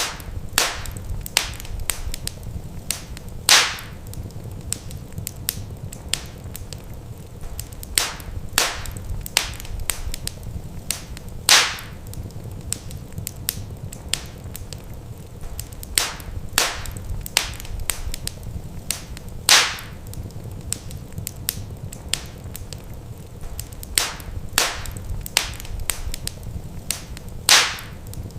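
Wood fire in a fireplace crackling: a steady low rumble under many small snaps, with a louder pop about every eight seconds.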